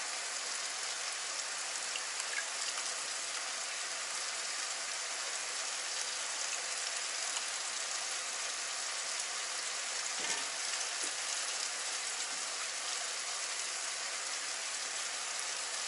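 Diced zucchini frying in a pan, a steady even sizzle.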